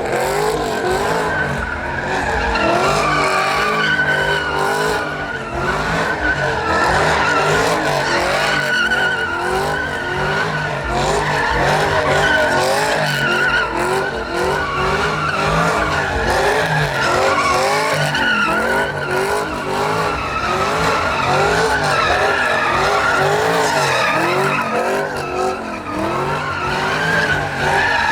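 Truck doing a burnout: engine held at high revs that rise and fall over and over, with tires squealing and skidding on the pavement.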